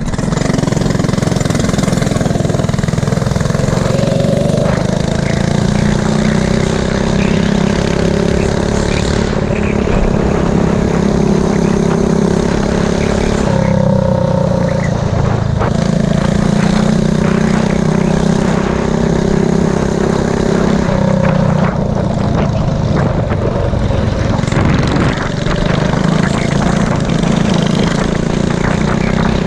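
Mini bike's small single-cylinder engine running hard, its note holding steady for stretches and shifting down and back up several times.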